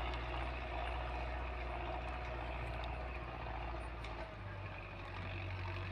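Tractor's diesel engine running steadily with a low, even hum; about four seconds in its note shifts a little higher.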